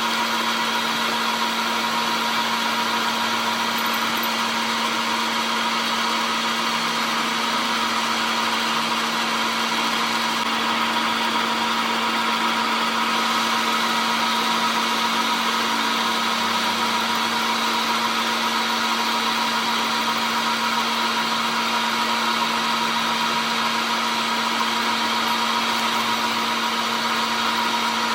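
An electric machine motor running steadily, a constant hum and whine with no change in speed or load.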